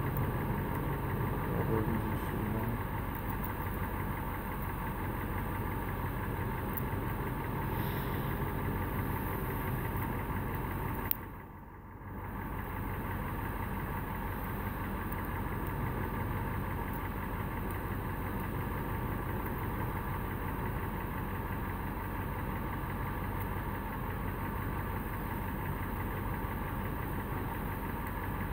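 An SUV's engine idling steadily. The sound dips briefly about eleven seconds in.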